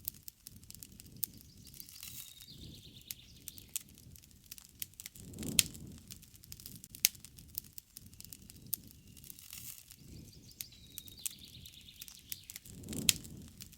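Wood campfire crackling with many sharp pops over a low rush of flame, two louder pops, one near the middle and one near the end. A bird chirps briefly in the background twice.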